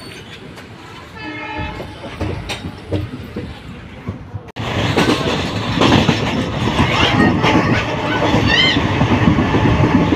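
Diesel-hauled express train running along the line, heard from on board a passenger coach: steady rumble with wheels clacking over the rails. The sound cuts briefly about four and a half seconds in and comes back louder and busier as the train runs at speed.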